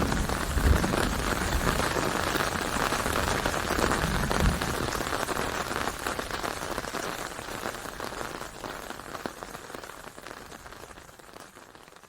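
Rain falling and pattering on a surface, with a few low thumps in the first half. The sound fades out steadily toward the end.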